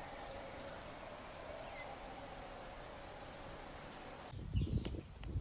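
Insects trilling outdoors, one steady high-pitched note over a faint hum. About four seconds in it cuts off suddenly, and irregular low thumps and rumbles follow.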